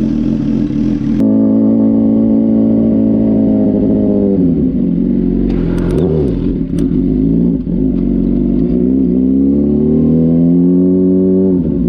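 A 600cc motorcycle engine is worked on the throttle. It holds steady revs, drops about four seconds in, dips, then climbs steadily before falling off again near the end. A few sharp clicks come about halfway through.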